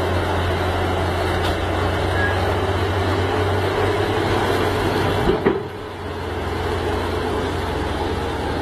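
Heavy vehicle engine running steadily under load, with a brief sharp break about five and a half seconds in before it carries on.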